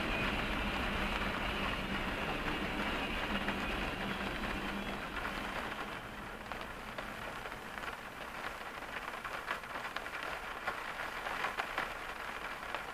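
Freight train cars rolling past and fading away as the end of the train clears the crossing, the rumble dying out about halfway through. Rain patters on the car's roof and windshield throughout, with single drops ticking more plainly once the train has gone.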